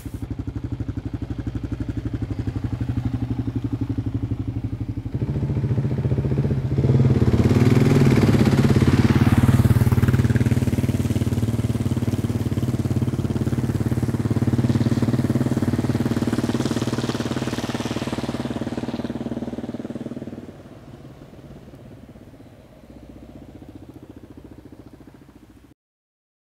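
Kawasaki KLR650's single-cylinder engine running steadily. It gets louder about five seconds in and is loudest a couple of seconds later, drops back about twenty seconds in, and the sound cuts off just before the end.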